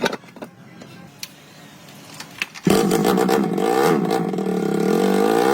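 Light clicks and taps, then about halfway through the restored motorcycle's engine suddenly catches and runs loudly and steadily, its pitch wavering slightly.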